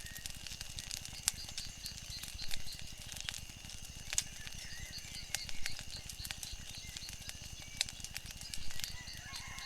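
Wood fire crackling, with sharp irregular pops, over lake water lapping in soft swells about every three seconds, and a steady high tone throughout.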